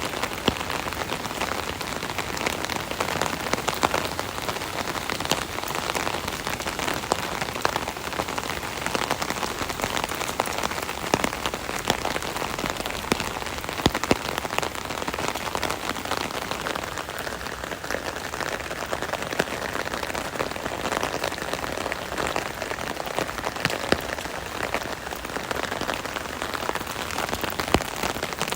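Steady rain drumming on an umbrella canopy overhead: a dense patter of individual drops, with many sharper close ticks over a continuous hiss of rainfall.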